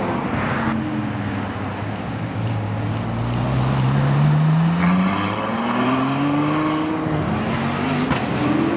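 A supercar's engine accelerating, its pitch climbing steadily, then climbing again twice more.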